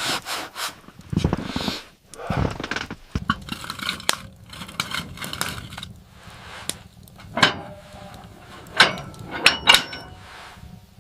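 Irregular knocks, scrapes and clatter of objects being handled, with a few short ringing clinks about two-thirds of the way through.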